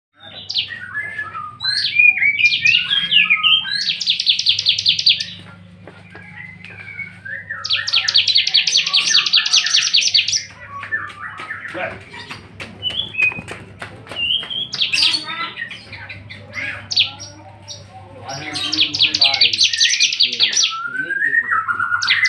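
Ciblek (bar-winged prinia) singing hard: quick chirps and slurred notes broken three times by long, rapid, buzzy trills.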